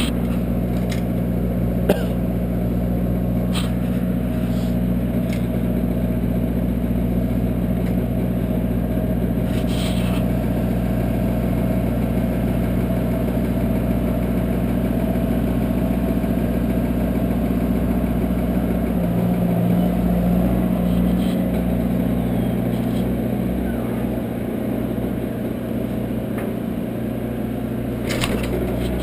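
An engine idling steadily, with a sharp click about two seconds in.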